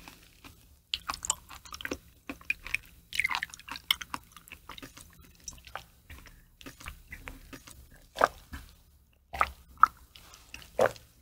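Close-miked chewing of raw liver: wet, squishy mouth sounds and many small sharp clicks. Near the end, a few louder sounds as a drink is taken from a small shot glass.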